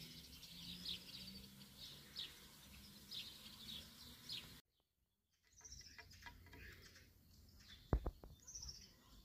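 Small birds chirping faintly, many short high calls at first and a few more after a brief dead gap about halfway through. A couple of short thumps near the end stand out as the loudest sounds.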